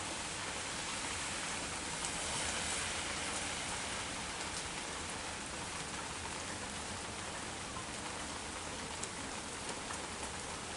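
Rain shower falling steadily, a dense even hiss with scattered sharper drop ticks, swelling slightly a couple of seconds in.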